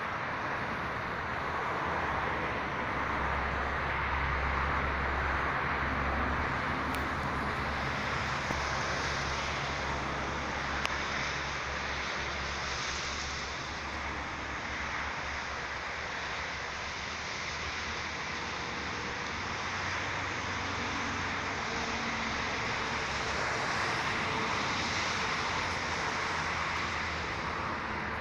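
Steady outdoor traffic noise, with a low rumble of a passing vehicle about 3 to 6 seconds in.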